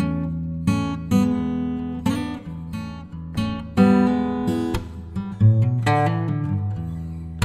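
Acoustic guitar music: chords and single notes plucked and strummed, each ringing out and fading before the next.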